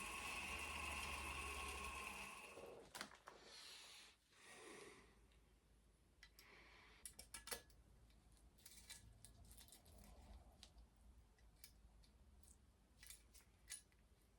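Faint small metallic clicks and taps, scattered, of a key being fitted and turned in a bicycle fork lock, after a steady mechanical hum with a whine in it stops about two and a half seconds in.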